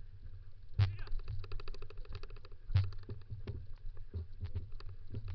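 Dog-drawn kick scooter rolling over a dirt trail, with quick irregular rattles and knocks from the frame and wheels. Two louder knocks come about one and three seconds in, over a steady low wind rumble on the microphone.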